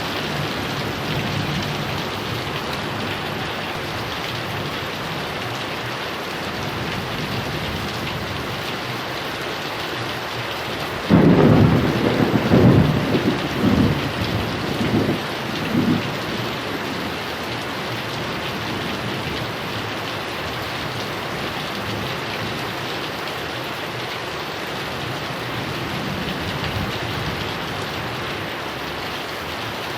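Heavy rain falling steadily, with a roll of thunder about eleven seconds in that rumbles in several peaks for around five seconds before fading back into the rain.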